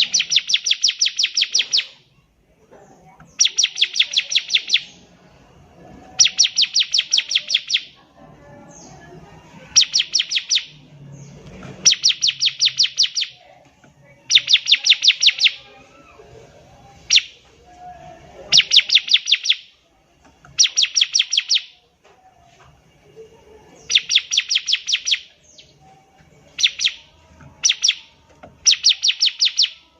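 Bar-winged prinia (ciblek) singing: phrases of rapid, sharp, evenly spaced high notes, each about a second or a second and a half long, repeated every two to three seconds.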